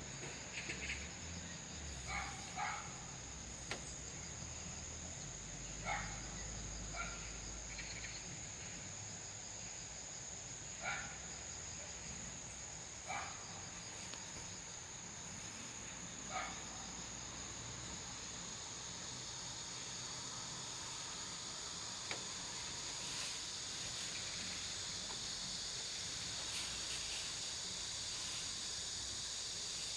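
Forest ambience: a steady high-pitched insect trill over a soft hiss of a quietly flowing stream, with short chirping calls now and then, mostly in the first half.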